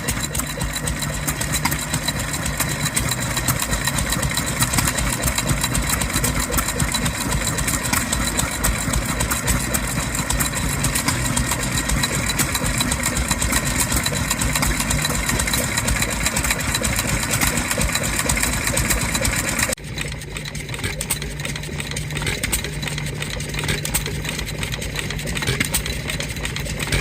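Vintage engines running steadily. About twenty seconds in, the sound switches abruptly to a different engine with a steady low hum.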